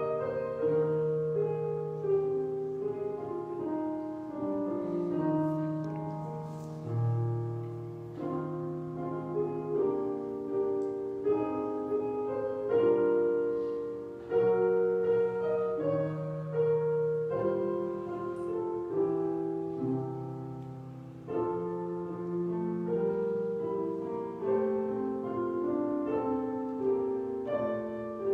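Slow church prelude played on piano in full chords, each chord struck and left to ring down before the next.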